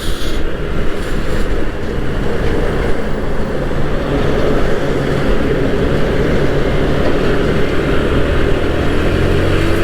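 Single-cylinder Bajaj Pulsar NS160 motorcycle running at highway speed: a steady, loud mix of engine and road noise, with an engine note rising near the end.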